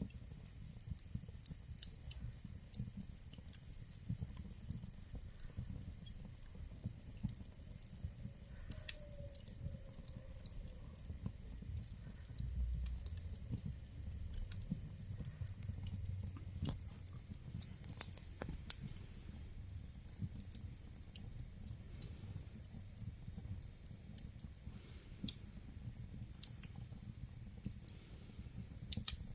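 Fire in a fireplace crackling, with irregular sharp pops and snaps over a low steady rumble.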